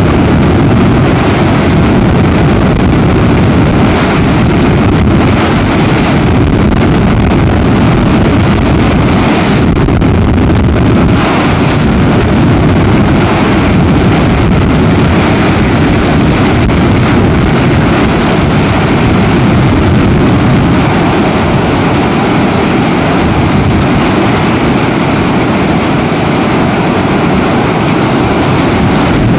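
Strong storm wind buffeting an outdoor nest camera's microphone: a loud, steady low rumble with rushing gusts over it.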